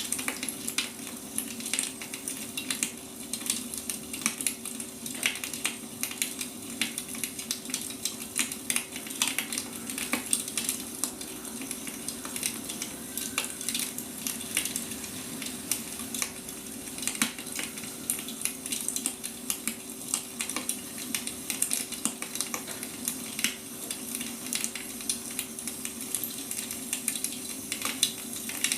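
Burning firewood crackling and popping, many irregular small pops over a steady hiss, with a faint steady low hum underneath.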